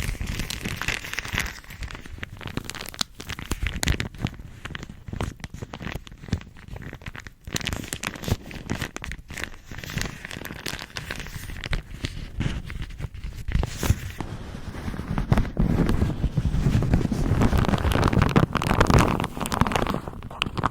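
A bag crumpled and crinkled by hand close to the microphone: a dense, irregular run of crackles that grows louder over the last few seconds.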